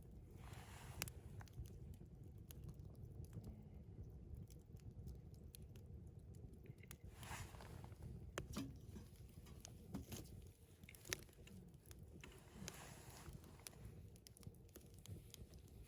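Campfire crackling faintly, with scattered sharp pops and ticks at irregular intervals.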